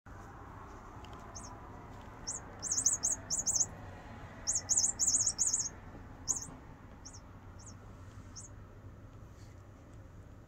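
Small bird chirping: two quick runs of high, thin chirps, then single chirps spaced well under a second apart, over a low steady hum.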